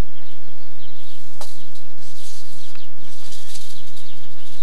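Birds chirping faintly over a steady hiss and low hum, with a single sharp click about a second and a half in.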